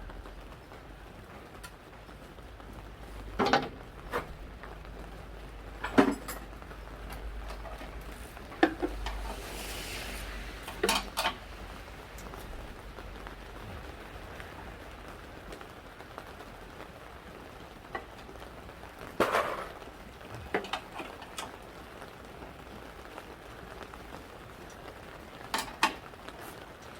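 Scattered metal clinks and knocks of tools and parts being handled while a forklift is reassembled, about eight in all, over a steady hiss.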